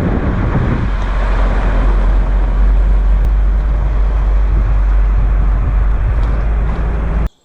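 Mercedes G 250 GD Wolf on the move: a loud, steady rushing of road and wind noise over a deep rumble. It cuts off abruptly near the end.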